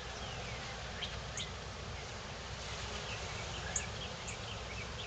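Small birds chirping in quick short notes, thickening about halfway through, over the steady hum of honeybees from an open hive.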